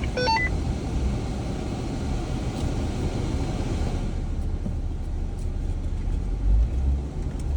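Jeep driving slowly along a rutted, muddy off-road trail: a steady low engine and drivetrain rumble, with the tyres working over the ground.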